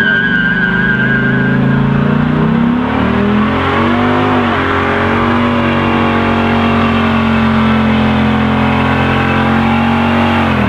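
A car engine revved hard with tyres spinning in a burnout. The engine pitch dips once, then climbs and is held steady at high revs for several seconds. A high tyre squeal sounds in the first two seconds.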